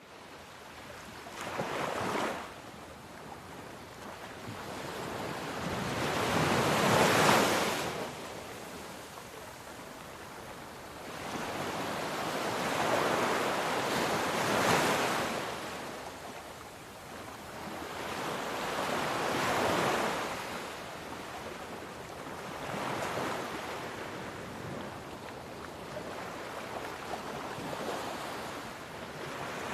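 Gentle sea waves washing in, one swell of surf every five or six seconds, each rising to a rush and then fading. The loudest comes about seven seconds in.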